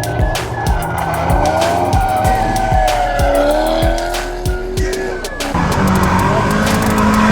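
Race car engines revving and tyres squealing, under background music with a steady beat.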